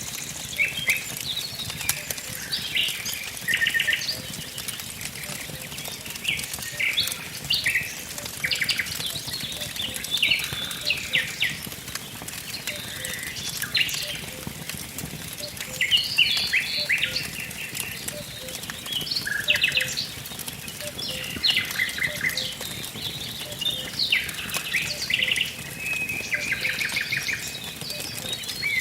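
Several songbirds chirping and trilling in short, overlapping phrases, over a wood fire crackling with scattered small pops.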